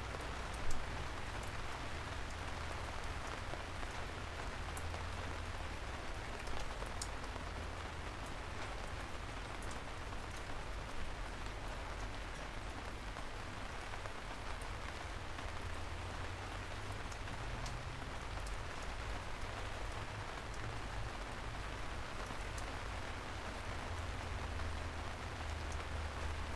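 Steady rain falling, with scattered sharper drop hits over a low rumble underneath. The loudest hit comes about a second in.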